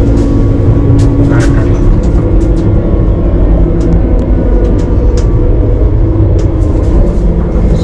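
Passenger train running, heard inside the carriage: a steady low rumble with a humming tone, and scattered clicks and rattles.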